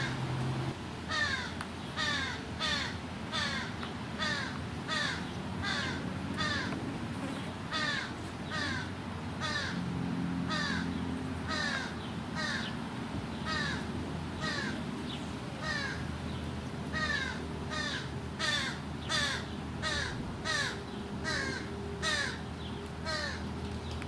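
American crows cawing over and over, a little more than one call a second, each call dropping in pitch.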